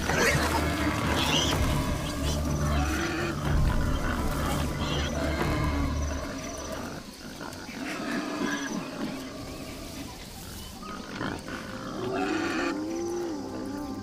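Wild boars grunting and squealing, mixed with a leopard's snarling growls, in a string of calls rising and falling in pitch. A low music drone runs under the first half.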